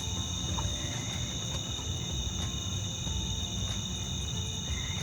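Night chorus of crickets and other insects, trilling in steady high tones, over a low rumble with a few faint scattered clicks.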